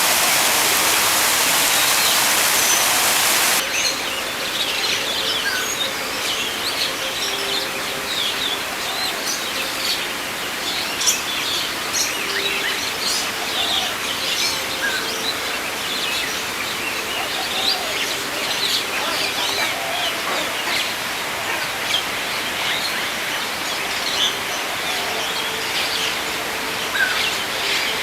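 A loud, steady rushing hiss that cuts off suddenly a few seconds in, then many birds chirping and twittering in quick, scattered calls.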